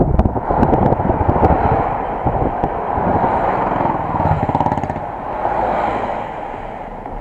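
Vehicle driving along with engine, road rumble and wind noise, muffled, picked up by an action camera riding with the vehicle. It grows quieter over the last couple of seconds.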